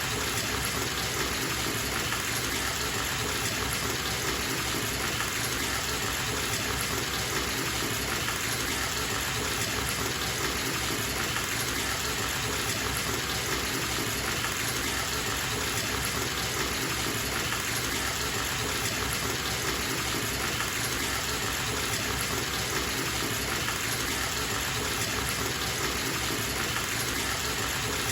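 Water running steadily from a bathtub tap into the tub as it fills, a constant, even gushing rush with no breaks.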